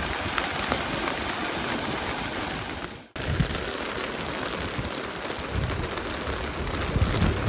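Steady rush of a river in flood and heavy rain, with wind buffeting the microphone in low gusts. The sound drops out for a moment about three seconds in, then resumes as a different take.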